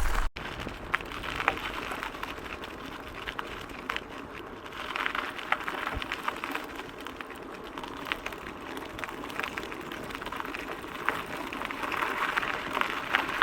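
Bicycle tyres rolling over a gravel road, a steady crunching crackle dotted with small clicks of stones, growing a little louder about five seconds in and again near the end.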